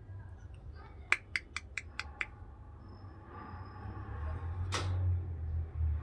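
A quick run of six sharp, ringing clicks about a second in, then a short hissing burst near the end, over a low rumble.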